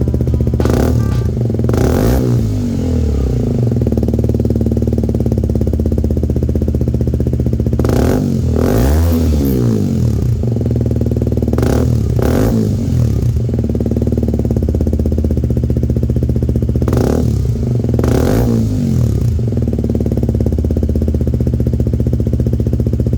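KTM Duke 125's single-cylinder four-stroke engine idling through an Arrow aftermarket exhaust. The throttle is blipped several times, in pairs, and the revs rise and fall back to idle each time.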